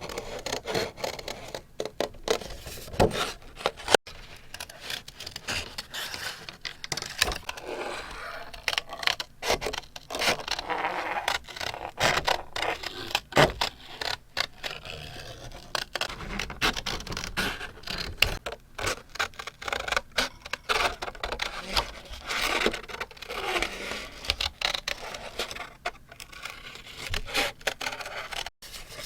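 Paper being handled close up: rubbing and scraping strokes, irregular and unhurried, mixed with many small sharp taps and clicks.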